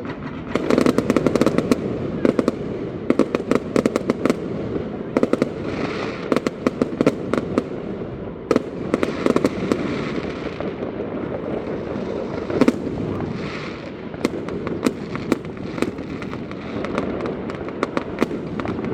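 Fireworks display: clusters of sharp bangs and crackling come every few seconds over a steady rumble of distant bursts, with one especially loud bang past the middle.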